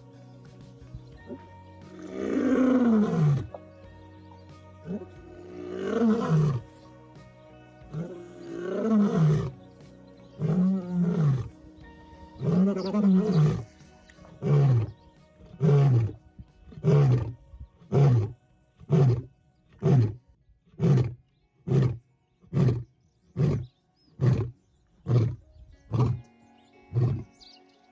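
Lion roaring: a full roaring bout of about five long, deep roars followed by a run of some fourteen short grunts, about one a second, dying away near the end. Soft background music underneath.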